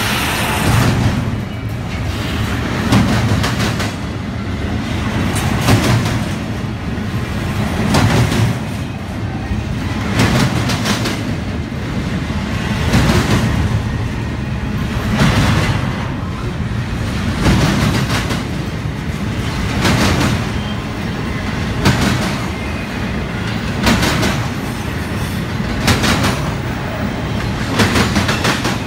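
Double-stack intermodal freight train rolling past: a steady low rumble of wheels on rail, with sharp clacks of wheelsets striking the track about every two seconds.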